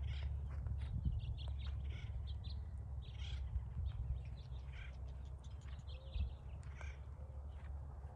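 Wild birds chirping and calling in short, scattered notes, over a steady low background rumble.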